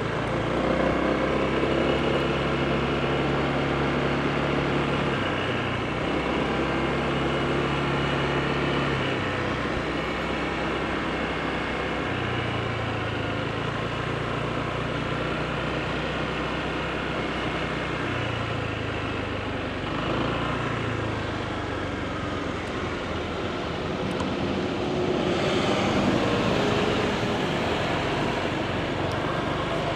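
Honda PCX scooter's single-cylinder engine running under way, its pitch holding and shifting in small steps, over steady road and wind noise. A louder rush of noise swells near the end.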